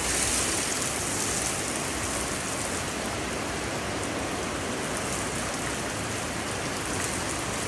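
Heavy rain pouring steadily in a severe thunderstorm.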